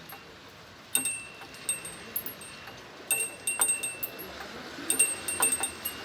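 Small bells struck in quick clusters, each strike leaving a bright, high ringing tone; four bursts of ringing, about a second in, around three seconds, at three and a half seconds and around five seconds in.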